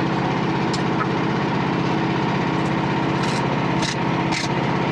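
Small gasoline engine of a Frontier OS27 portable bandsaw mill running steadily at idle, with a few faint clicks during the log adjustment.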